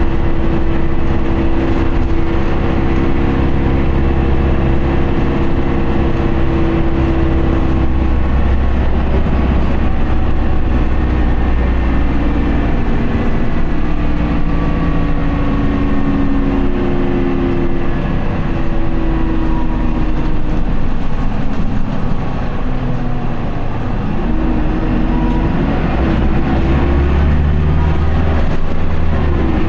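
Isuzu Erga city bus's four-cylinder turbo diesel running under way with its automatic gearbox held in fourth in power mode. The engine note is steady at first, falls slowly through the middle as the bus slows, and rises again near the end as it picks up speed.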